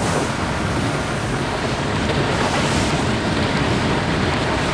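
Wind buffeting the microphone and water rushing past a boat moving at speed, a steady dense rush.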